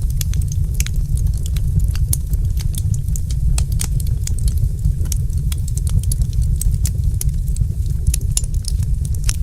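Wood fire crackling, with frequent sharp, irregular pops and snaps over a steady, deep rumble of burning.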